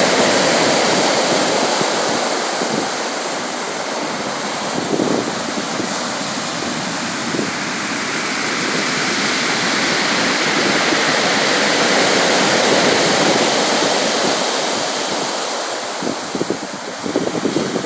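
Sea waves washing in: a continuous rushing of surf that swells and eases slowly, with a patch of sharper, uneven crackling near the end.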